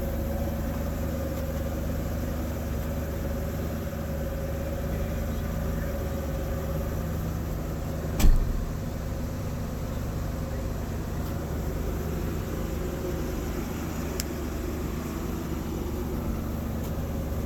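A motor vehicle engine running with a steady hum, with one sharp knock about halfway through.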